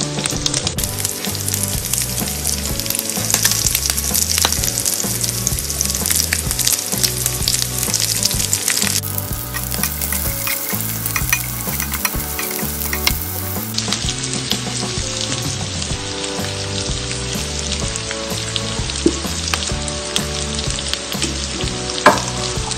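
Pork pieces and chopped red onion sizzling and crackling as they fry in oil in a nonstick pan, stirred with a spatula. A single sharp tap near the end.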